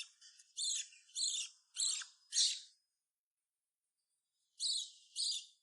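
Hand-fed parrot chick giving short, high-pitched, harsh begging squawks while being fed: four calls in quick succession, a pause of about two seconds, then two more near the end.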